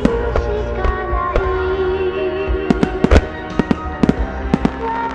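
Aerial fireworks shells bursting in a series of sharp bangs, about a dozen, bunched together around the middle, over music that accompanies the display.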